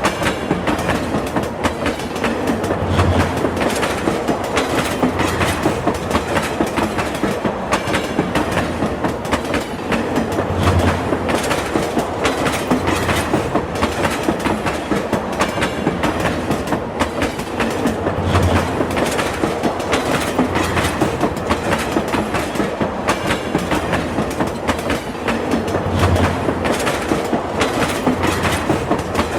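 Train running steadily, its wheels clicking rapidly over the rails, with a low thud about every seven to eight seconds.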